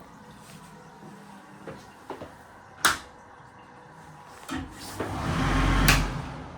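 A Vortice AHDR hand dryer with a bad motor starts up about four and a half seconds in: a rough low rumble under a rush of air that builds for about a second and a half, then cuts out with a click. A sharp click or knock sounds about three seconds in, before it starts.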